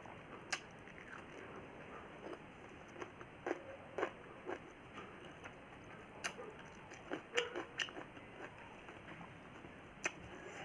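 Close-miked chewing and mouth sounds of someone eating a meal of rice, dal and vegetables: soft wet smacks and irregular clicks, a few sharper than the rest.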